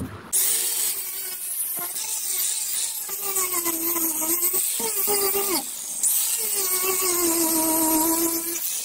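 Handheld power grinder grinding a surface, a loud hiss with a motor whine whose pitch sags under load and recovers. It lets off briefly a little before the six-second mark, then bites in again.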